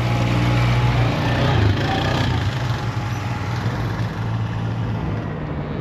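A vehicle engine running with a steady low drone, its pitch shifting briefly about a second in.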